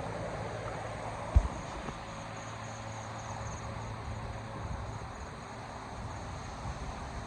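Insects trilling in a monsoon forest over a steady wash of outdoor noise, with a single low thump about a second and a half in.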